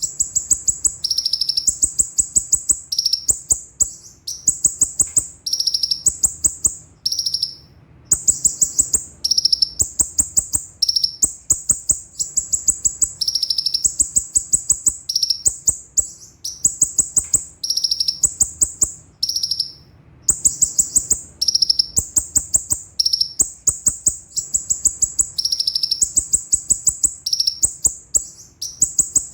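Konin (kolibri ninja) sunbird singing: fast, high-pitched rolling trills of sharp ticks, each burst about a second long, repeated over and over with short pauses.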